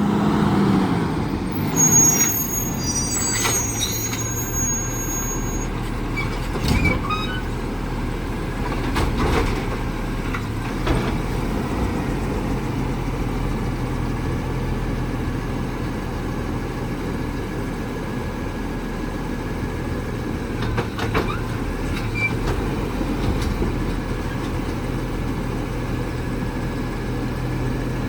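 Heil Rapid Rail automated side-loader garbage truck running steadily, with scattered clanks and knocks over its engine hum and a brief high squeal a couple of seconds in.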